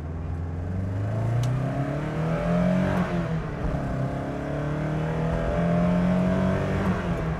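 Vauxhall Chevette HS's 2.3-litre twin-cam four-cylinder engine under hard acceleration, heard from inside the cabin. The revs climb, drop at a gear change about three seconds in, then climb again through the next gear before another dip near the end.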